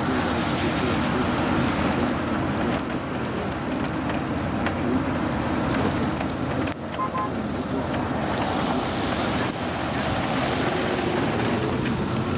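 Steady rushing noise of a car on the move, with road and engine sound under wind noise.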